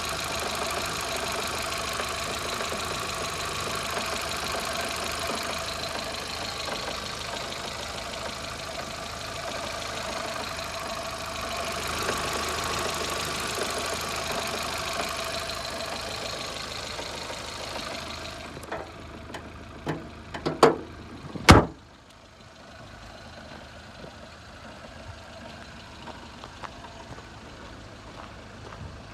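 2008 Kia New Morning (Picanto) engine idling steadily with the bonnet open. About 19 to 21 s in come a few knocks and one loud slam, after which the engine is much quieter.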